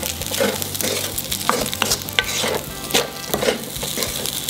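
Fried rice sizzling in a hot pan while it is stirred, with frequent scrapes and clicks of the stirring utensil against the pan.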